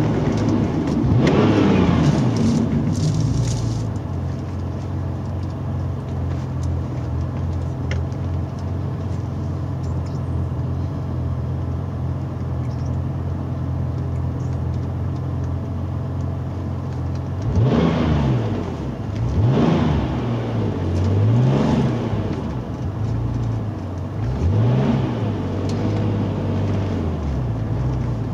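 Porsche 993 Turbo S's air-cooled twin-turbo flat-six heard from inside the cabin. The engine note rises and falls near the start, settles to a steady low drone at low speed, and about two-thirds of the way through its pitch begins swinging up and down repeatedly, roughly once every second and a half.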